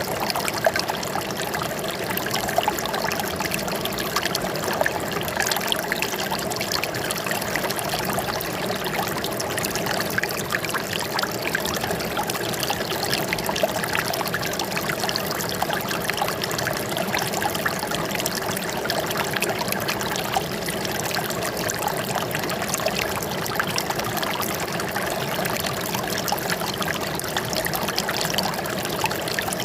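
Running water trickling and splashing steadily, like a small stream or fountain, with no change.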